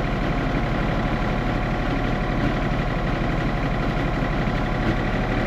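Tractor engine running steadily, turning a power-take-off generator; its speed is being held by the hand throttle so that the generator puts out 230 volts at 50 Hz.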